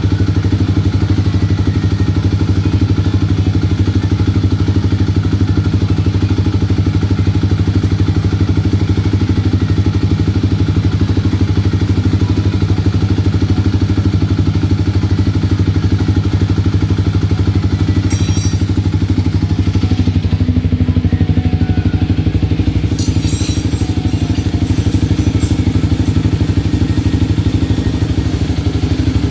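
Kawasaki D-Tracker 250's single-cylinder four-stroke engine idling steadily through a Mivv aftermarket exhaust, with no revving. Some light clicking comes in over the last few seconds.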